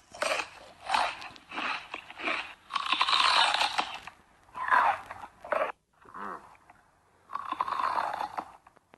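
Crunchy chewing and biting, in irregular bursts of a fraction of a second to about a second each, with short pauses between.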